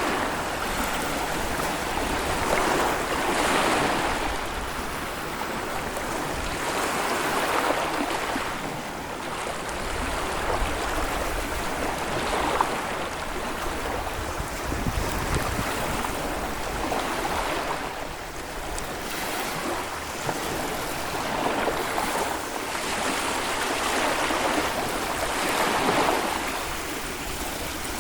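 Small Baltic Sea waves breaking and washing up on a sandy beach, the surf swelling and fading about every four to five seconds.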